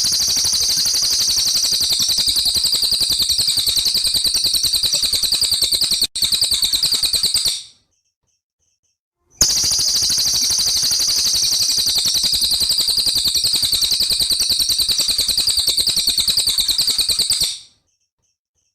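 Songbird song recording: a loud, rapid, evenly pulsing rolling trill held for about seven seconds. It breaks off, falls silent for about two seconds, then comes back for another eight seconds.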